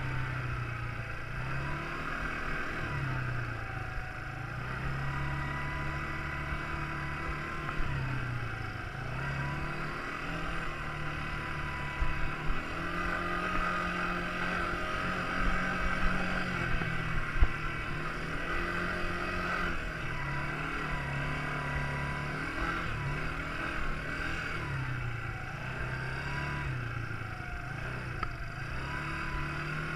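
Quad bike engine running while being ridden, its pitch repeatedly climbing and dropping as the throttle opens and closes, over a steady low rumble.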